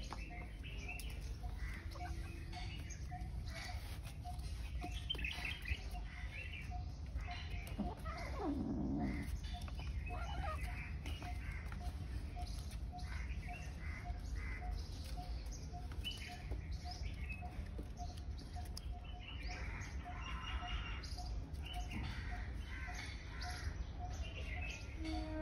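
Birds chirping, with a low note repeated about twice a second. About eight seconds in comes one short cry falling in pitch.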